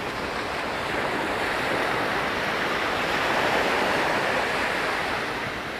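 Sea waves washing onto a sandy beach: a steady rushing of surf that swells to a peak midway and eases off again.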